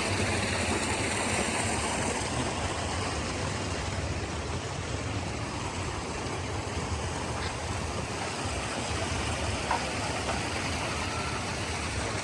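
A car engine running steadily with a low hum, under a steady rushing hiss.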